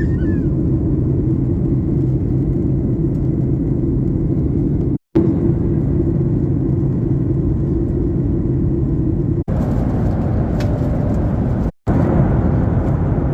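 Airliner cabin noise heard from a passenger seat: a loud, steady rumble of the jet engines and airflow with a low hum. It drops out briefly twice where the clips are joined.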